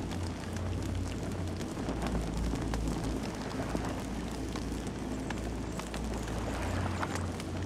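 Campfire burning, with frequent sharp crackles and pops of the burning wood over a steady low rumble.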